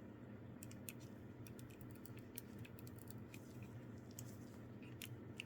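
Faint, irregular small clicks of plastic action-figure parts being handled and pressed into place, over a faint steady hum.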